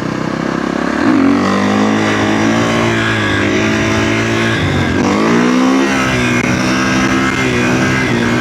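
Kawasaki KX450F's single-cylinder four-stroke engine accelerating on the road. The revs climb about a second in, drop briefly just before the middle as at a gear change, then rise and hold again.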